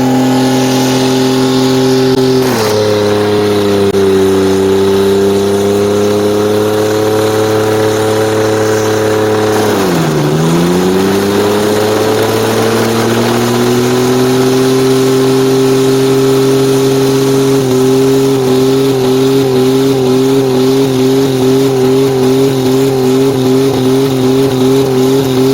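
Pickup truck engines held at high revs under load during a truck tug-of-war. The pitch holds steady, drops a little about two and a half seconds in, dips sharply and climbs back around ten seconds in, then wavers rhythmically over the last several seconds.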